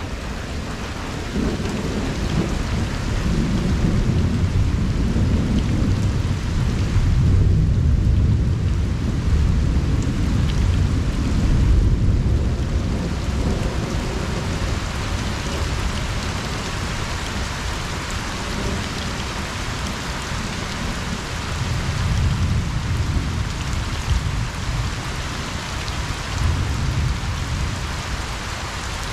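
Steady rain falling on a pond, with long low rumbles of thunder: one rolls from a couple of seconds in until about halfway, and a second, weaker one comes near the end.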